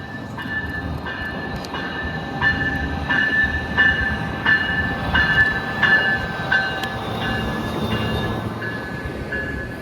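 A train passing with a low rumble, while a bell rings evenly about one and a half times a second, growing louder toward the middle and then fading.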